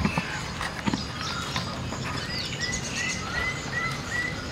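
Birds chirping outdoors: short, repeated chirps, about two a second in the second half, over a steady outdoor hiss. A couple of sharp knocks come in the first second.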